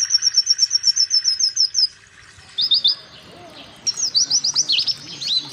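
White-eye (pleci) singing. A fast, high trill of about ten notes a second for the first two seconds, a few short chirps, then from about four seconds in a run of sharp down-slurred whistles.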